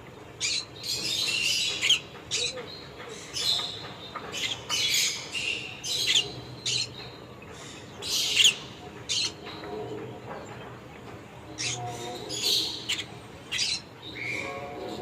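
Pet conure making short, high chirps and squawks over and over at uneven intervals, with one louder squawk about halfway through.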